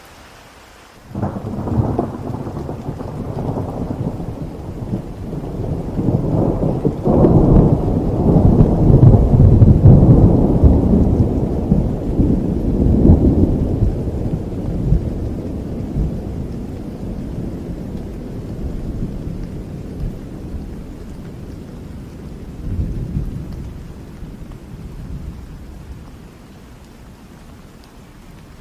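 A long peal of thunder over steady rain: it breaks suddenly about a second in, swells into its loudest rolling rumble with cracks partway through, then fades slowly, with a last smaller grumble near the end.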